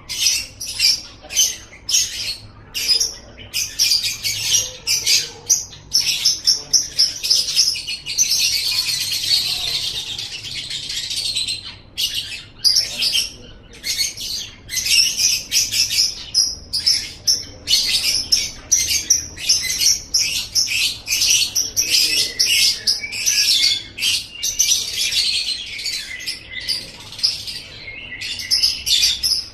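Lovebird singing: a fast, unbroken run of high, sharp chirps, with a longer continuous twittering trill about a third of the way in.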